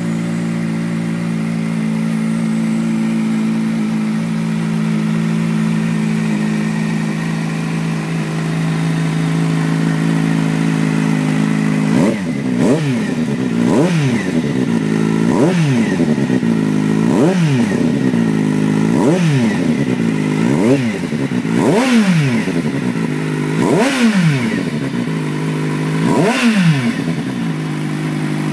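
Kawasaki Z800's inline-four motorcycle engine breathing through a Pipe Werx CarbonEdge aftermarket silencer, idling steadily, then revved in about nine quick throttle blips, each rising and dropping straight back to idle.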